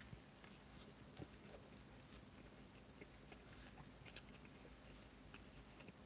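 Faint chewing: a man biting into and chewing a burger, with small scattered mouth clicks over a faint steady low hum.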